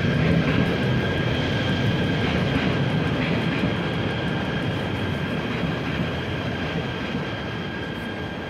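KTM Komuter electric commuter train pulling in alongside the platform, its carriages rumbling past close by with a steady high whine over the rumble, slowly getting quieter as it slows.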